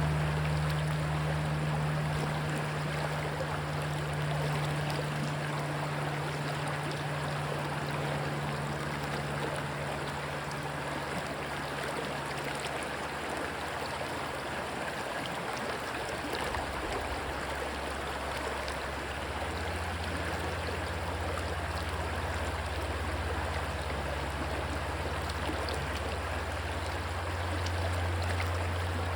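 Rushing stream water, a steady wash with no let-up. A low steady drone runs underneath; about halfway through it fades and a lower drone takes over.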